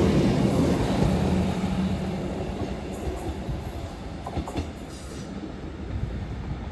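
Northern Class 156 diesel multiple unit pulling away, its engine hum fading as it draws off, with a few sharp clicks of wheels over rail joints midway.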